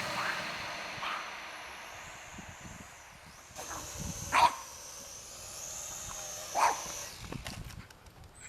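A dog barks twice, about two seconds apart, over a faint steady high whine.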